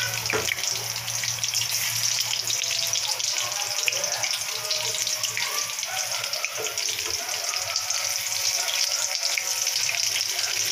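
Egg-dipped potato-and-chicken kababs shallow-frying in hot oil in a pan: a steady, dense sizzle with constant fine crackling.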